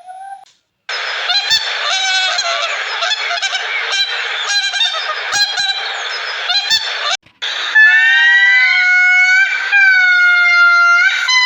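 Animal calls: a dense, harsh chorus of calls, then about eight seconds in a few long, clear pitched calls that bend slightly in pitch.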